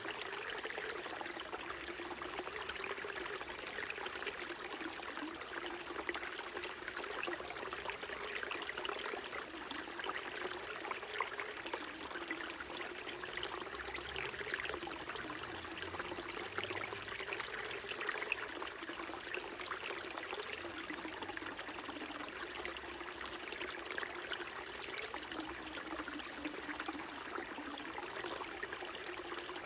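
Small mountain stream running and trickling over rocks, a steady splashing babble with a low gurgle beneath it.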